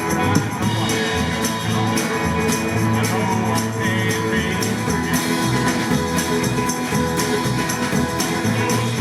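Live band music with a steady beat and no words heard.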